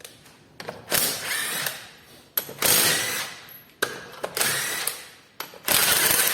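Cordless battery impact wrench hammering off the wheel's lug nuts in four short bursts, one per nut. The nuts come free almost at once, as they were already loose.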